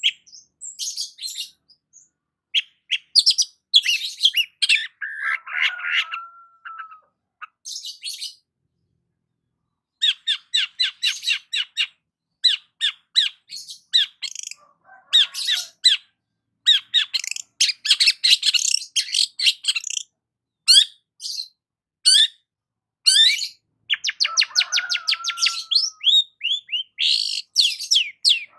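Long-tailed shrike (cendet) singing: bursts of rapid, sharp chattering notes, separated by short pauses, twice broken by a lower, longer sliding note.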